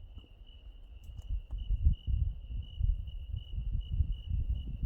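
Crickets chirping in a steady, high, pulsing trill, with an uneven low rumble buffeting the microphone.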